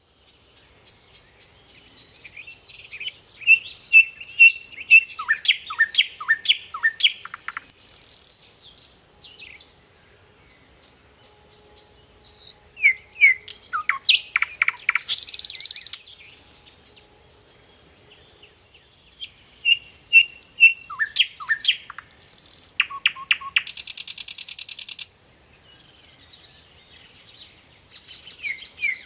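A songbird singing in repeated phrases with pauses between them. Each phrase is a fast run of chirps and down-slurred whistles that ends in a harsh, buzzy trill. Three full phrases come roughly every eight seconds, and a fourth begins near the end.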